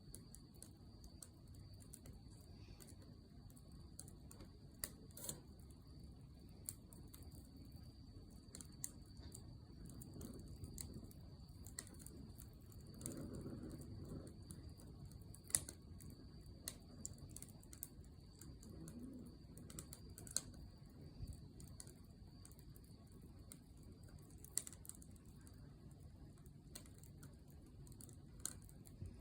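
Wood fire in a fire stand, faintly crackling with scattered sharp pops over a low, soft rumble of the flames.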